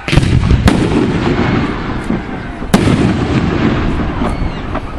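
Aerial fireworks shells bursting: sharp bangs right at the start, just under a second in and a loudest one near three seconds in, with a continuous booming rumble of further bursts between them.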